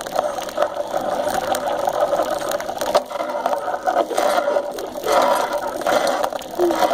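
Bicycle being ridden, rattling and clattering steadily, with a few sharper knocks; the bike sounds bad.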